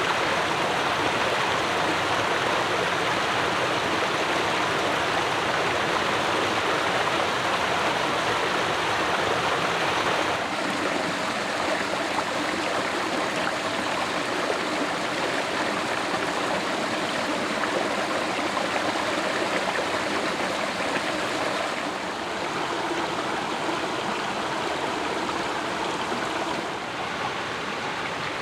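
Steady rushing of flowing water from a stream, dropping a little in level about ten seconds in, again after twenty seconds and near the end.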